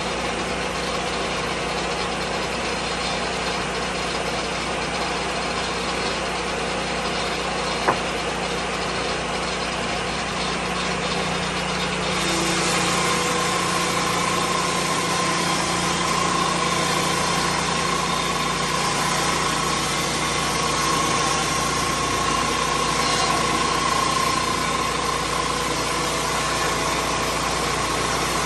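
Lucas Mill 10-30 swing blade sawmill's engine running steadily, with a single sharp click about eight seconds in. Some twelve seconds in it gets louder and brighter, and a steady high whine joins it and holds.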